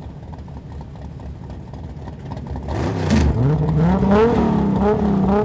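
Car engines idling with a low rumble, then revved hard about three seconds in, the pitch climbing and dropping with each blip of the throttle.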